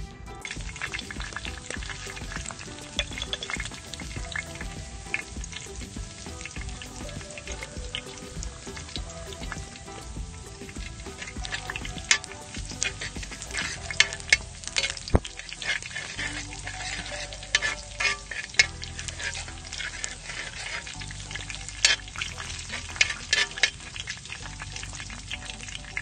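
Chopped garlic frying in oil in a wide metal pan, sizzling steadily with sharp pops that grow louder and more frequent from about halfway. A metal spoon stirs it against the pan.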